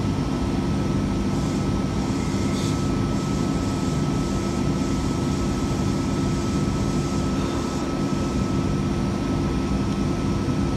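Double-deck electric train carriage humming steadily, with a thin high whine held on one pitch over the hum.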